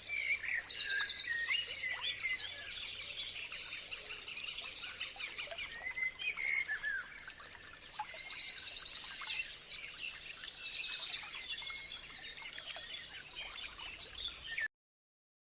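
Songbirds singing and chirping. One bird repeats a rapid, high trill three times: near the start, in the middle and about two-thirds through. Other birds call in between, and the sound cuts off shortly before the end.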